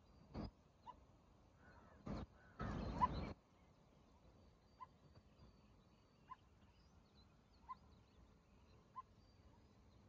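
A bird repeats a single short note about every second and a half. A few short bursts of noise come in the first few seconds, the longest and loudest about half a second long, around three seconds in.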